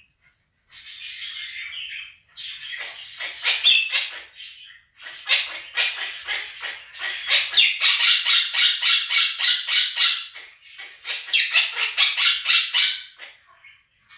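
Monk (quaker) parakeets screeching in loud runs of rapid, harsh repeated calls, about six to eight a second. The calls come in several bursts with short pauses between them.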